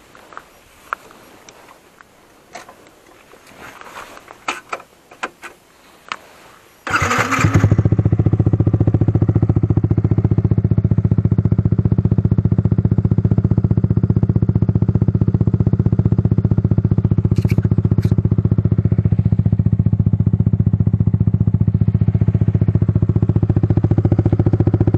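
Footsteps and small scrapes on grass and gravel. About seven seconds in, a Yamaha R15's single-cylinder engine is cranked, catches and settles into a steady idle.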